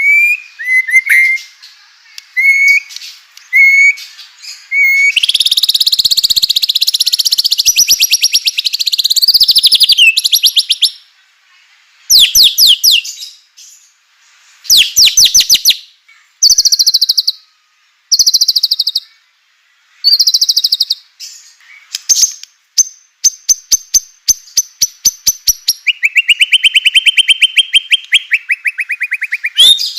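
White-rumped shama singing: a few short clear whistled notes, then long, very fast rattling trills and bursts of rapid repeated notes, the 'kretekan' rattling calls, broken by short pauses.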